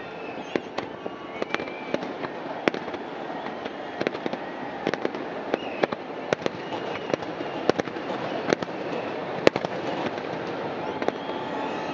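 Aerial fireworks going off in a dense display: many sharp bangs at irregular intervals, sometimes several a second, over a steady background noise. The loudest bang comes about nine and a half seconds in.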